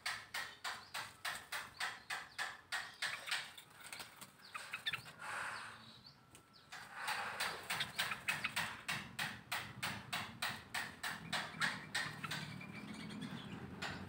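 A bird calling in long runs of sharp, clicking chips, about three or four a second, with a pause of a couple of seconds near the middle.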